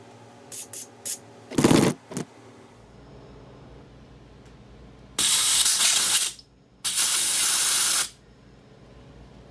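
A few clicks and a short knock of a small part being handled, then two long hissing spray bursts of about a second each, forced through a small snowblower carburetor's jet passages to clear them and check that the holes go through.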